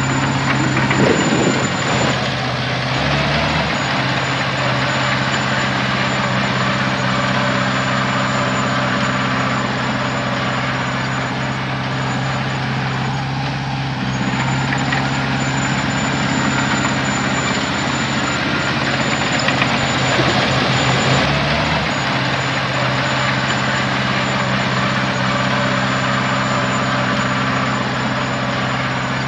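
Heavy diesel engine running steadily, its pitch shifting slightly about three seconds in and again near twenty-one seconds, with a thin high whine that comes and goes.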